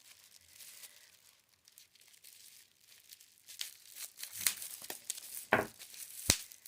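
Crinkly plastic packaging being handled and torn or cut open, rustling faintly at first and then louder, with several clicks and one sharp snap near the end.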